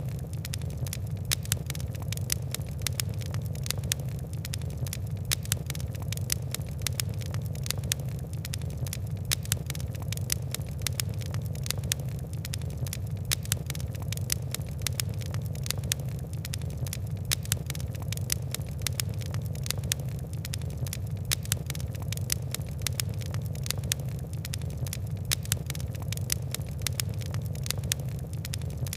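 Fire crackling in a fireplace: many sharp, irregular crackles, several a second, over a steady low rumble.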